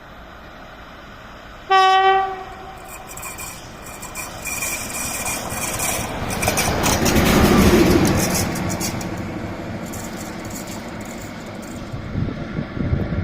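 A train gives one short horn blast about two seconds in, then passes close by: the rolling and rail noise swells to its loudest near the middle and fades away.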